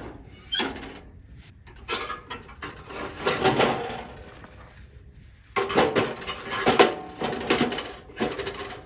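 Bursts of clinking and clattering from a wood stove and its firewood being handled to get it ready for lighting: short rattles early on, then a longer run of knocks and clinks in the second half.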